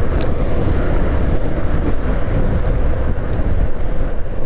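Steady wind buffeting and road noise on a moving motorcycle, heavy in the low end and unchanging.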